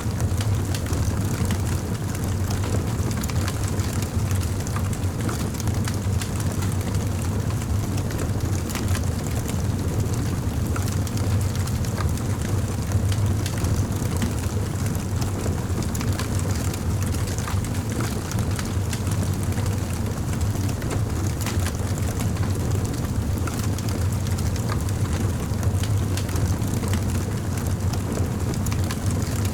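Campfire burning with a steady low rumble of flame, and frequent sharp crackles and pops from the burning wood.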